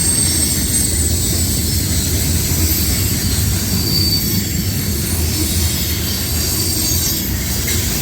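Freight cars of a long CSX manifest train rolling past at speed: a steady rumble of steel wheels on rail, with thin high-pitched ringing over it.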